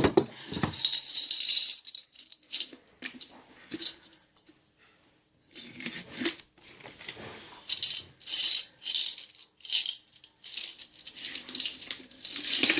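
Paper bills rustling and crinkling in short, irregular bursts as they are handled and counted.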